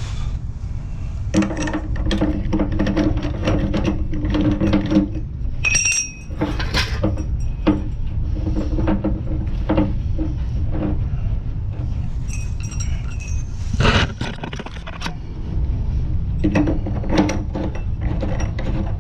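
Metal tools clinking, knocking and scraping on a tank water heater as its lower heating element is fitted and screwed back in, with brief metallic rings and a low buzz in two stretches.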